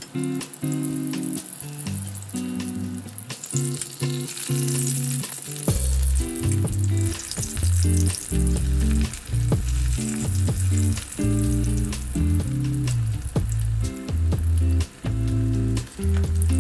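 Shiitake mushrooms and eggplant sizzling as they fry in shallow oil in a cast-iron pan. Background music plays over it, and a bass line comes in about six seconds in.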